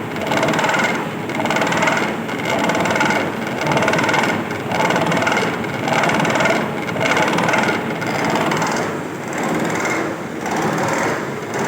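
Whirling thread-milling cutter of an Oerlikon Italiana ISOFIL screw-milling machine cutting the flight of an extruder screw: a steady metal-cutting noise with a ringing tone that swells and fades about once a second.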